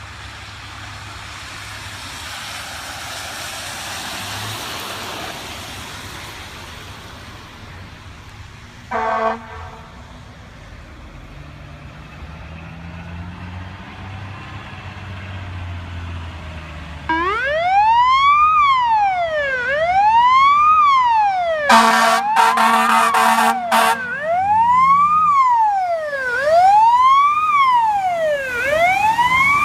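Traffic and engine noise with a short horn blast about nine seconds in. About seventeen seconds in, a fire truck's electronic siren starts, loud, rising and falling about every second and a half in a wail. Several air horn blasts sound over it a few seconds later.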